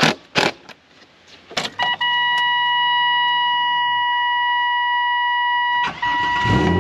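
A few sharp knocks, then, about two seconds in, a steady electronic warning tone from the dash comes on as the ignition is switched on. Near the end the Saturn VUE's 3.0 V6 cranks, briefly cutting the tone, and catches at once, settling into a steady idle with its new throttle body fitted.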